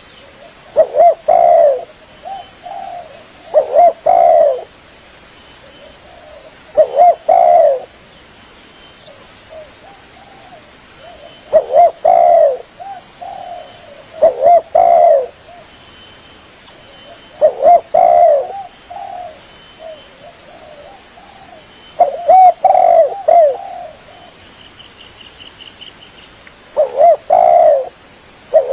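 Spotted dove (tekukur) cooing: loud, rolling phrases that repeat every three to five seconds, with softer coos in between.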